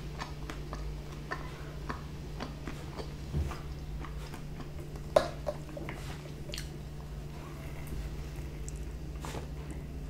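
Close-miked chewing of pizza: soft wet mouth sounds and small clicks, with a sharper click about five seconds in, over a steady low hum.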